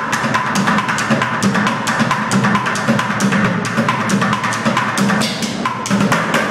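Bucket drumming: fast, dense rhythmic strikes of sticks on upturned plastic buckets and pails, with a booming low tone and sharp clicking stick hits, played continuously.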